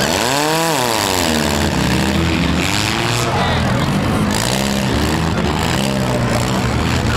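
Four-cylinder demolition derby car engines revving up and down as the cars maneuver, with one sharp rev rising and falling about half a second in and more revs later over a steady low engine drone.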